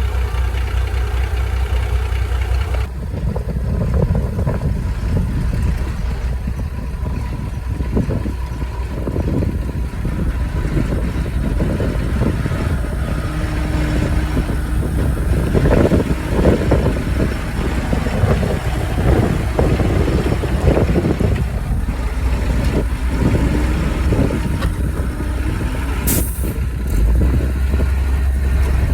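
Heavy vehicle engine running steadily, with many short knocks and clanks through the middle and a brief sharp hiss near the end.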